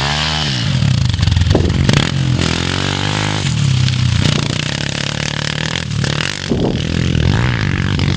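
Honda CRF dirt bike's four-stroke single-cylinder engine being ridden, revving up and falling back several times as the throttle is opened and closed.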